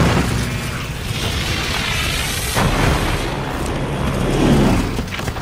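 Flak shells exploding in heavy booms, one at the start and another about two and a half seconds in, over a steady low drone of B-17 bomber engines: a war-film battle soundtrack.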